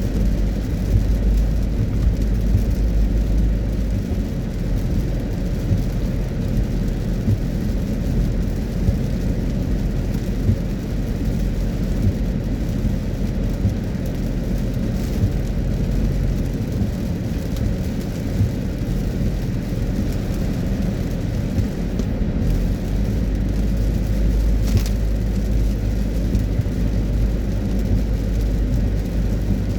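Car driving on wet roads in rain: steady low rumble of tyres and engine, with the hiss of rain and spray.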